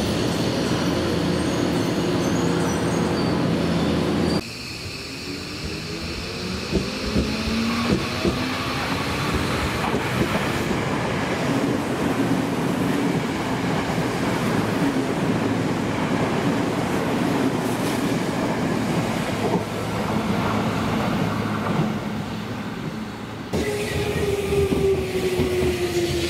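Electric trains passing close by, wheels on the rails and traction motors running. A motor whine rises in pitch a few seconds in and another falls in pitch near the end. The sound changes abruptly twice where one passing train gives way to another.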